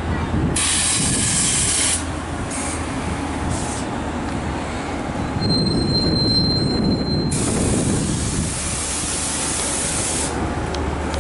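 Long Island Rail Road push-pull train with C3 bilevel coaches running past on steel rails, with a steady low rumble. There are two spells of high hiss, about half a second in and again from about seven seconds, and a high, steady wheel squeal from about five and a half to seven seconds in.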